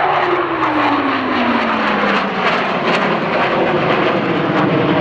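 Blue Angels F/A-18 Hornet jets flying past: loud, steady jet-engine noise with a whine that falls in pitch over the first two and a half seconds as the aircraft go by.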